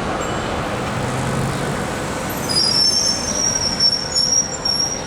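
Tram running with a steady rumble. From about halfway in, a loud high-pitched squeal of steel wheels on the rails wavers in loudness and stops near the end.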